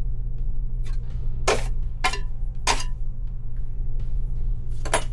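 Drywall taping knife drawn over paper tape and joint compound in four short scraping passes, over a steady low hum.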